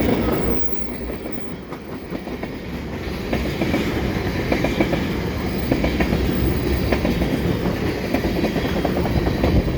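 Freight train of tank cars rolling past: a steady heavy rumble with many sharp clicks and knocks from the wheels over the rail joints.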